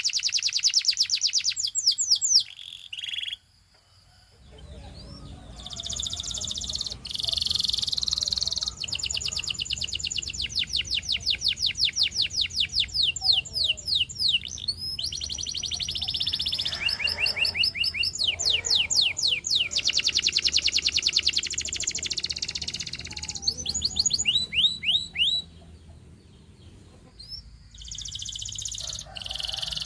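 A domestic canary singing in long, fast trills of repeated high notes, phrase after phrase, with a brief pause a few seconds in and another near the end.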